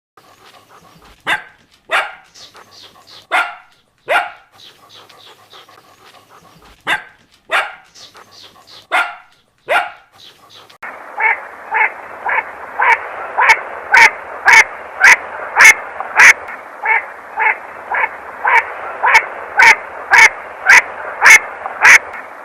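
A dog barking and yipping in short, sharp, scattered barks. About eleven seconds in, this gives way to a fast, regular run of barks, about two a second, over steady background noise.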